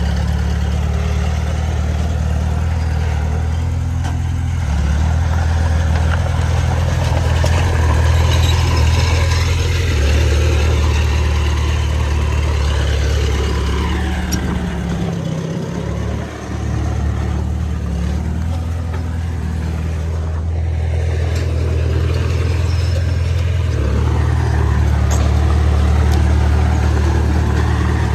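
Heavy diesel engine of earthmoving machinery running under varying load, its low drone stepping up and down in pitch several times, with a brief drop about sixteen seconds in.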